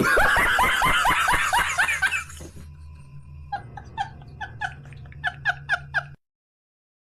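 Laughter: a loud run of quick 'ha-ha' bursts, then a quieter run of higher laughing bursts, cutting off suddenly about six seconds in.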